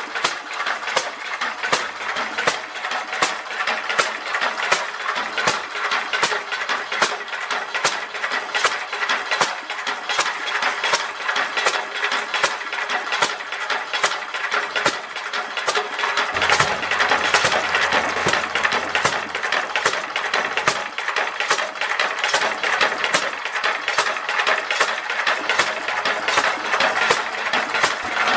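IHC International Harvester Type M 1.5 HP hit-and-miss stationary engine running, with a steady mechanical clatter and a regular run of sharp clicks from its valve gear and igniter.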